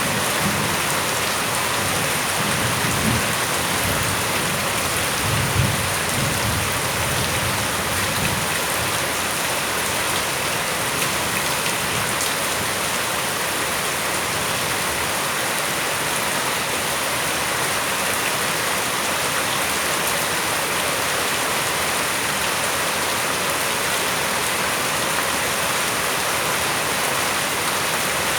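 Steady rain falling, with low rumbles of thunder during the first several seconds.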